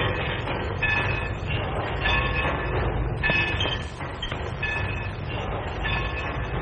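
Steam train sounds in a railroad yard on an early sound-film track: a steady rumble with a short ringing tone that comes back about every second and a quarter.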